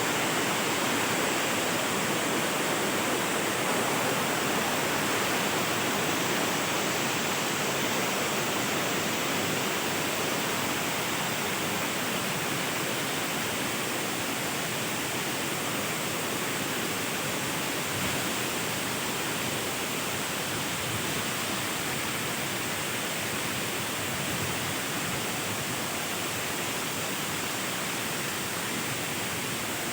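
Waterfall: falling water rushing steadily and evenly, with no breaks.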